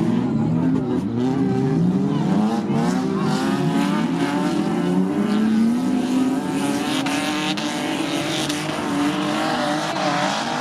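Several banger racing cars' engines revving hard together as the pack laps an oval track, their notes repeatedly rising and falling in pitch.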